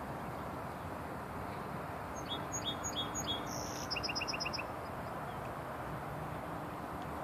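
A small bird calling: four short chirps in a row, then a quick run of five or six higher notes about a second later, over steady background noise.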